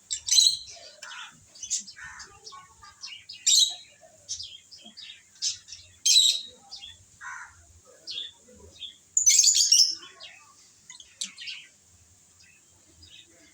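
Pet lovebirds chirping: short, sharp high calls in irregular bursts, the loudest a longer rapid chatter about nine seconds in.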